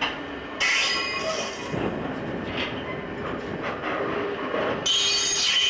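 Container freight train's wagons rolling past, a steady rumble of wheels on rail. A high squealing from the wheels starts about half a second in and grows stronger near the end.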